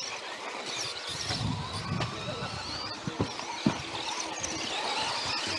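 Electric radio-controlled off-road buggies running on a muddy course: a thin motor whine rising and falling with the throttle, with a few sharp knocks past the middle.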